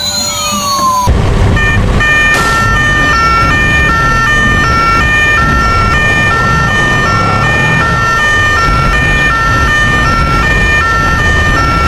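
Battery-powered toy ambulance's electronic siren sounding a two-tone hi-lo wail that alternates evenly and keeps going, starting about a second in after a short falling whistle, with a low rumble underneath.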